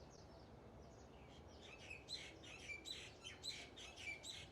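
Small birds chirping: a quick run of short, high calls starting about a second and a half in, over faint steady background noise.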